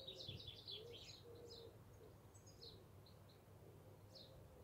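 Faint birds chirping over near silence: a quick run of high chirps in the first second and a half, then scattered single chirps.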